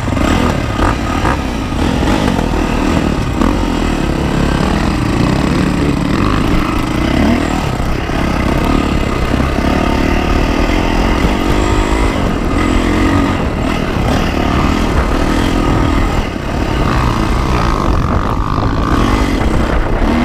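Yamaha YZ450F's single-cylinder four-stroke engine being ridden hard, its revs rising and falling as the throttle opens and closes, with wind rumbling on the microphone. The engine backs off briefly about three-quarters of the way through.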